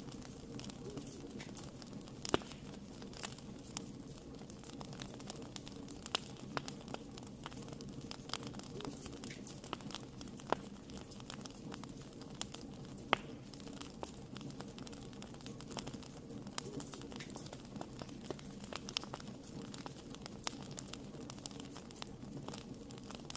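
Wood fire burning in a fireplace: a steady low rush of flames with irregular crackles and sharper pops scattered throughout, a few standing out louder.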